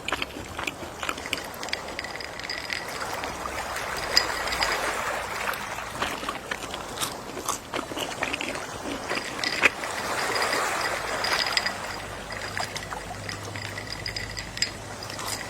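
Gentle sea waves lapping in slow swells, two of them building and easing, with scattered small clicks and crackles over the steady wash.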